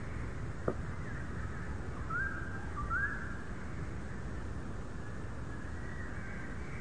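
Birds calling with short whistled notes, two of them stepping up in pitch, over a steady low background noise; one sharp knock a little under a second in.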